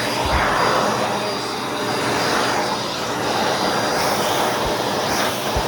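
Vacuum cleaner running steadily with a thin high whine over its rushing airflow, vacuuming dust out of foam and felt filters.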